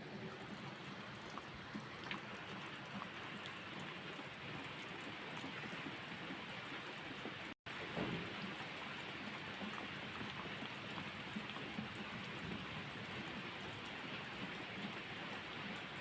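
Steady rain falling, with scattered sharp drip ticks. The sound cuts out completely for an instant about halfway through.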